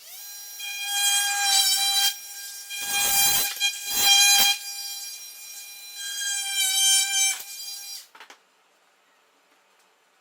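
Fein oscillating multi-tool spinning up and running with a steady high-pitched whine, louder in several stretches as the blade cuts into plywood, then switched off about eight seconds in.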